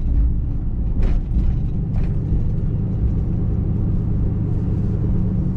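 Steady road and engine rumble inside a moving pickup truck's cabin, with a couple of light rattles about one and two seconds in.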